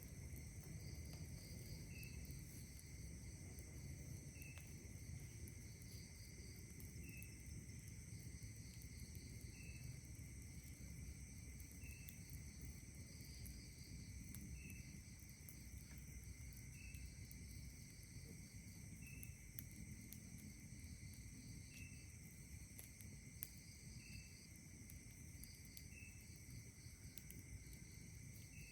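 A faint chorus of night insects trilling steadily, with one short chirp repeating regularly about every two and a half seconds, over a low steady hum of outdoor background.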